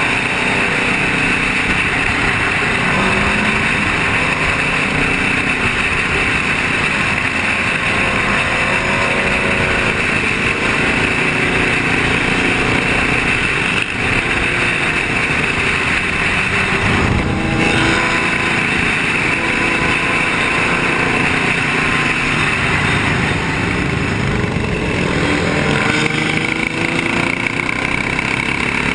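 Motorcycle engines running and revving, their pitch rising and falling, over a steady rushing road noise.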